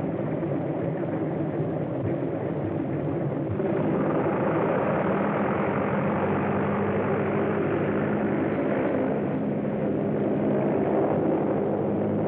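Propeller airplane engines running with a steady drone, swelling louder about three and a half seconds in as the plane powers up, as on an early-1930s film soundtrack.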